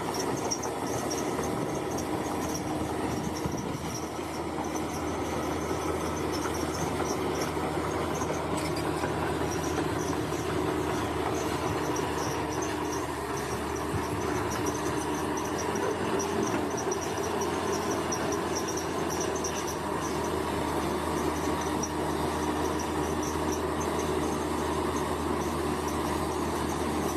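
Bulldozer's diesel engine running steadily. A high, rapidly pulsing insect chirring is heard above it.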